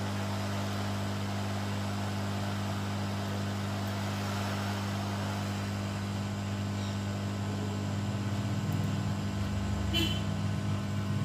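Hot air rework station running steadily, its blower humming over a rush of air, as heat is put on a laptop motherboard chip to lift it. A brief tool click near the end.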